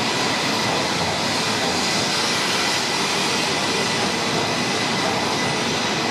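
Shinkansen train rolling slowly alongside the platform, a steady running noise with a faint, steady high-pitched tone over it.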